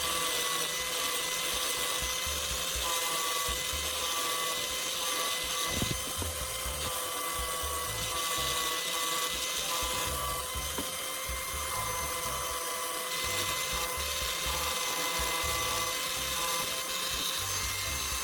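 Angle grinder running steadily with a constant high whine, a homemade fine sanding disc on a CD backing buffing a steel hammer head with a hiss of abrasion.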